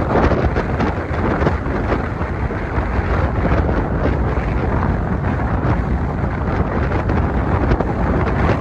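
Strong wind buffeting the microphone: a loud, steady, deep rushing rumble with constant small gusty flutters.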